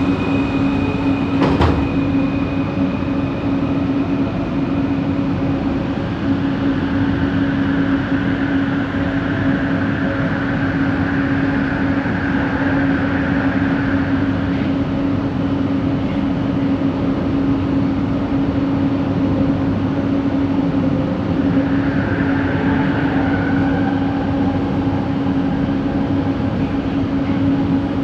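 Light-rail train running between stations, heard inside the coach: steady rolling noise with a persistent hum that sits above it, the odd motor noise coming from this coach. A single knock comes about a second and a half in, and a higher whine swells in the middle and again briefly near the end.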